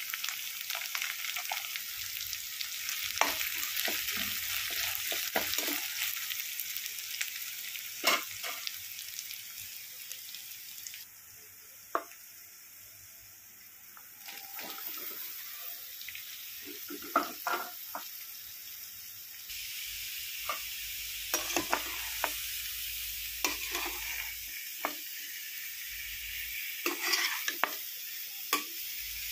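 Sliced onion, then sliced radish, frying in oil in a steel pan: a steady sizzle with the clicks and scrapes of a spoon stirring against the metal. The sizzle drops away for a few seconds near the middle, then comes back.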